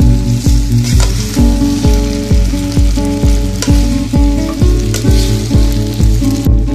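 Spaghetti sizzling in hot oil as it is tossed and stirred with a spatula in a pan. Background music with a steady bass beat, about two and a half beats a second, plays over it and is the loudest part.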